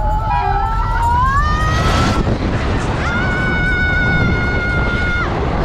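Train horn sounding twice over the heavy rumble of a passing train: the first blast glides upward in pitch, and the second is held steady for about two seconds.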